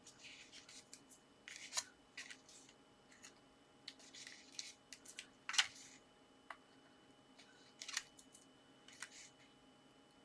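Backing paper being peeled off double-sided tape on card pieces, with paper handling: short soft rustles and a few sharp little clicks and ticks.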